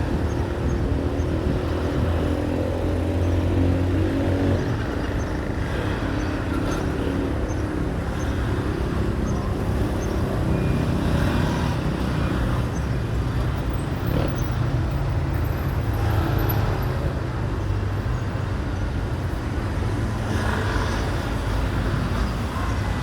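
A vehicle engine running steadily, with a pitched engine drone in the first few seconds that then eases into a rumbling noise.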